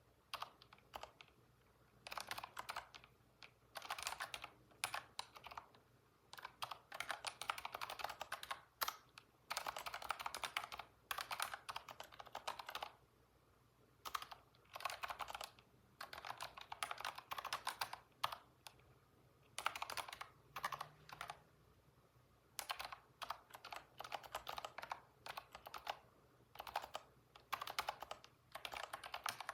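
Typing on a computer keyboard, in quick runs of keystrokes a second or two long with brief pauses between them.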